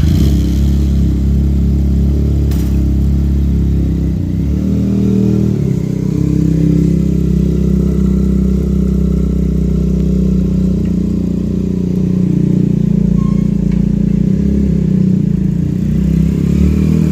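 Benelli TNT 300 parallel-twin motorcycle engine running through an Akrapovič exhaust, holding a mostly steady, low note with a brief rise in pitch about five seconds in.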